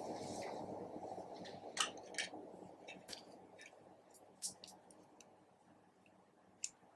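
Slime being squished and mixed, with sticky squelching and scattered small clicks and pops, fading off over the last couple of seconds.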